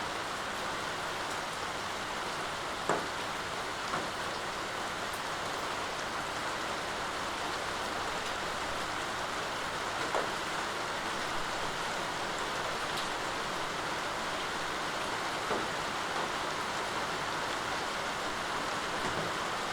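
Steady rain falling, with a few louder individual drops landing close by, the most distinct about three seconds in.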